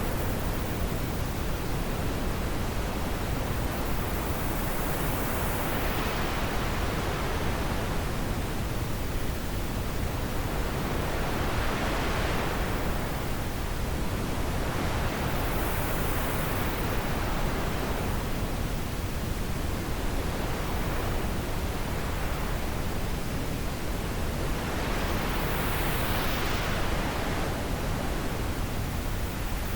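Steady rushing wind, rising and falling in slow gusts every few seconds.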